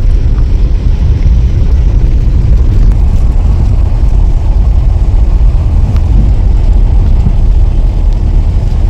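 Steady, loud low rumble of air noise inside a moving car, the sound the passenger calls "o barulho do ar".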